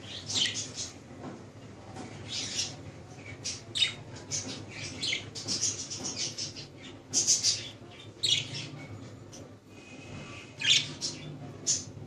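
Pet Australian parrots squawking and chirping: many short, harsh calls a few times a second, overlapping and irregular, over a faint low hum.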